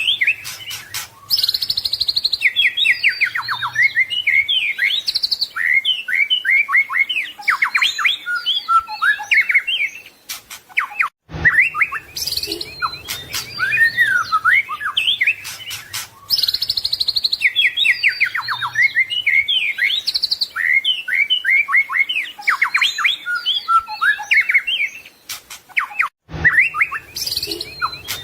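White-rumped shama singing a fast, varied song of whistles, trills and chirps. The same passage plays again after a brief break about 11 seconds in, and again after another break near the end: a looped recording of the song.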